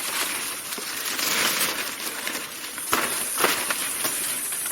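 Rustling of leaves and branches, with sharp snaps about three seconds in and again half a second later, over a steady high-pitched hiss of forest insects.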